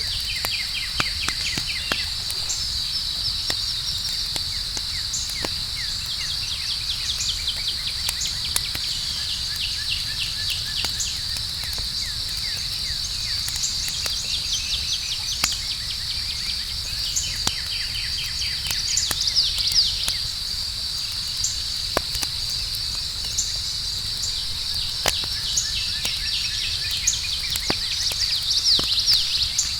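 Outdoor campfire crackling with scattered sharp pops, over a steady chorus of chirping crickets, with runs of short trills now and then.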